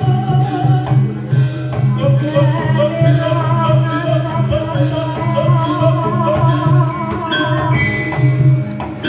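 Live music of a Javanese reog / kuda lumping ensemble: a wavering sung melody over steady, repeating percussion.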